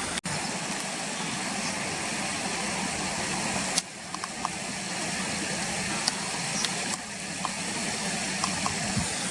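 Steady outdoor background noise: a low hum under an even hiss, with a few faint ticks. It changes abruptly at cuts about a quarter second in, near the four-second mark and at seven seconds.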